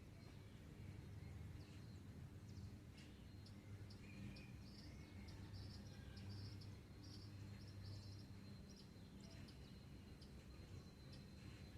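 Faint rural dawn ambience: scattered short bird chirps over a steady high-pitched insect trill, with a low steady hum underneath.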